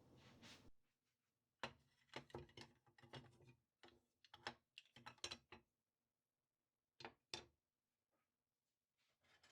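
Metal cutlery clinking and clicking as pieces are handled and sorted in a kitchen drawer: a quick string of light clinks, then two sharp clicks about seven seconds in. A faint steady hiss stops under a second in.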